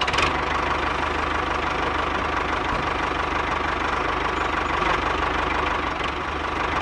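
Tractor engine idling steadily, with a fast, even low knocking beat.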